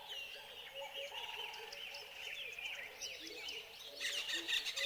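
Several birds calling at once: many short high chirps over lower whistled calls, faint and steady. A rapid ticking joins in about four seconds in.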